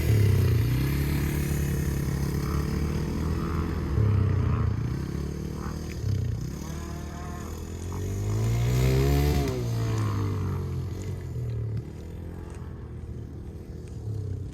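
Dirt bike engine revving up and down as it is ridden around the track. About nine seconds in, a bike gets louder with its pitch climbing, then the pitch drops sharply as it passes.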